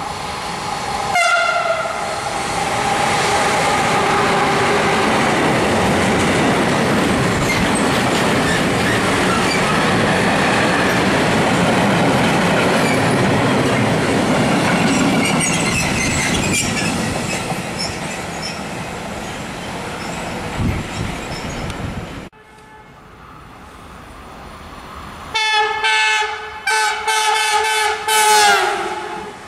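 Freight train led by a Siemens Vectron electric locomotive passing through a station: a short horn blast about a second in, then the steady rumble and clatter of the wagons going by, easing off. After a break, an approaching white-and-red passenger train sounds its horn in several blasts near the end.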